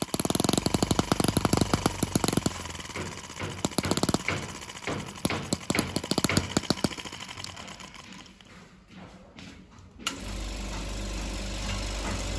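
Small model engine firing in rapid, sharp beats that thin out and fade away about eight seconds in. A steady low hum starts suddenly near the end.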